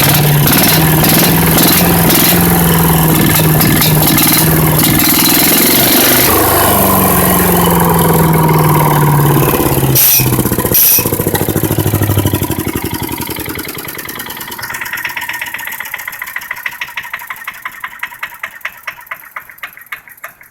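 The 5.5 HP Tecumseh OHV single-cylinder engine of a Yard Machines wood chipper runs loud at high revs. Its speed sags about six seconds in and picks up again. About twelve seconds in it is shut off and spins down, its beats slowing and fading until it stops near the end.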